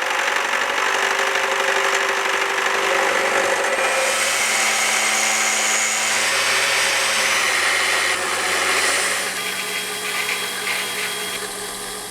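Power tool running, a dense whirring noise with steady tones that changes about eight seconds in and grows somewhat quieter toward the end.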